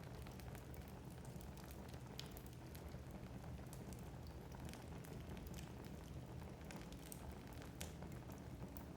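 Wood fire burning in a fireplace, faint: logs crackling with many small, irregular pops over a low, steady rumble of the flames.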